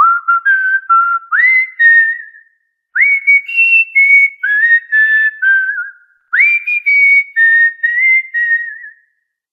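Cockatiel whistling a tune in three phrases. Each phrase opens with a quick rising swoop, then steps through held, clear notes. The whistling stops about nine seconds in.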